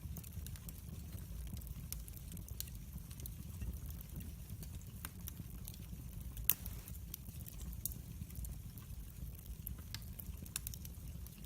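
Log fire burning in a fireplace: a steady low rumble of flames with frequent small crackles, and one louder pop about six and a half seconds in.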